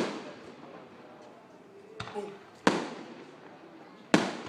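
Aerial firework shells bursting overhead: a bang at the very start, a softer pop about two seconds in, then two loud bangs, one at about two and a half seconds and one a little after four seconds. Each bang dies away in a lingering echo.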